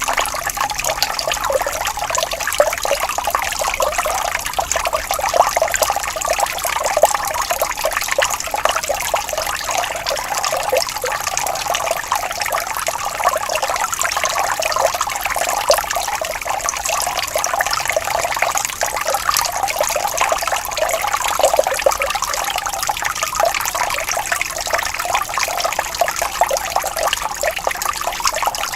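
Water flowing and trickling steadily, like a small stream babbling over stones, with a continuous splashing patter.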